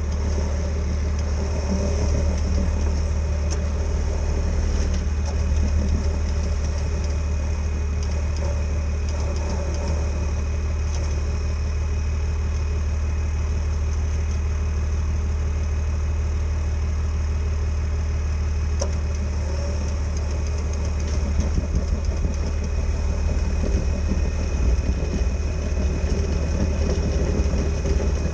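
A machine running steadily with a strong low hum and a faint, constant high whine, growing slightly rougher and more uneven after about twenty seconds.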